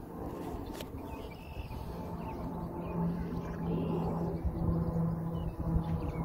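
Small birds chirping over a steady low drone that swells gradually, with a single sharp click about a second in.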